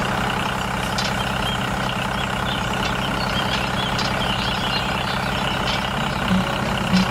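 A miniature DIY tractor's engine running steadily with an even, low drone, like a small engine idling.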